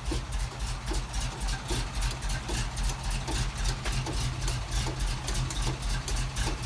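Big-block Ford FE V8 of a 1971 Ford F700 fire truck idling steadily, with a fast, even ticking over the low engine note.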